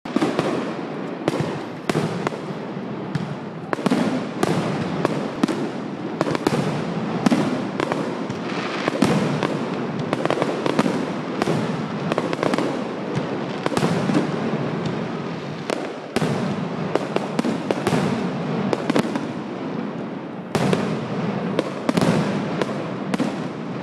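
Aerial fireworks display: a rapid, irregular series of sharp shell bursts, several a second at times, over a continuous crackling wash from overlapping bursts.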